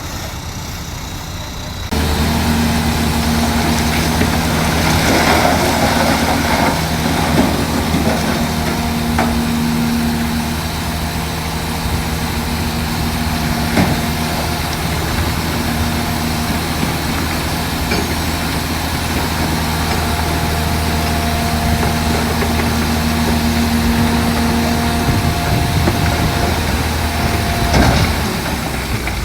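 Heavy diesel engine of earthmoving machinery running at a steady, even note that gets louder about two seconds in, with a couple of sharp metallic knocks, one midway and one near the end.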